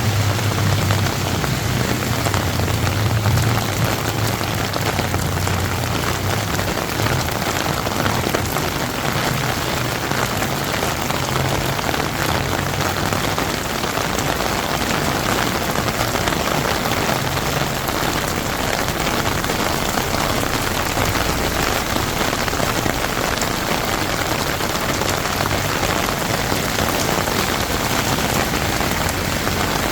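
Steady rain falling on a flooded street, an even hiss of drops on pavement and water. A low rumble sits underneath during the first several seconds.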